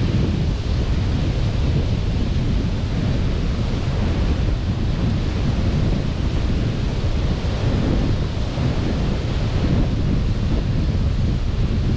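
Sea surf washing onto a beach, with wind buffeting the microphone: a steady low rushing noise that swells and eases gently.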